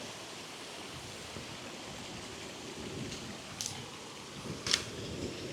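Steady rush of water from a small waterfall, with a couple of brief faint clicks in the second half.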